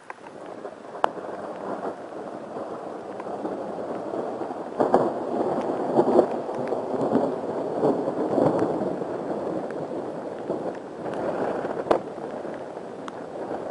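Thunder close by: sharp cracks followed by a rolling rumble that swells in the middle and again near the end.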